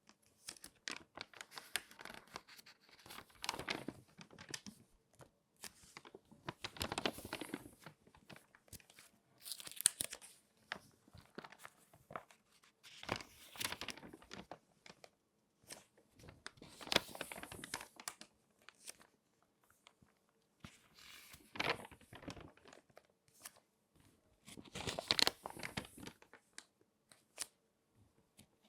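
Glossy magazine pages being folded and crinkled by hand: irregular crackling rustles, with louder crinkles every few seconds and quiet pauses between.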